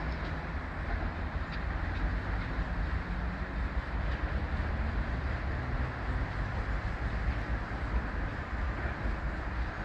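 Class 73 electro-diesel locomotive hauling a rail head treatment train, running steadily with a low rumble and wheel noise.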